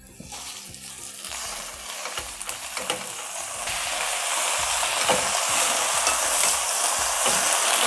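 Gongura leaves sizzling in hot sesame oil in a metal kadai, stirred with a wooden spatula, with light scrapes of the spatula. The sizzle grows steadily louder as the leaves go into the oil and start to sauté.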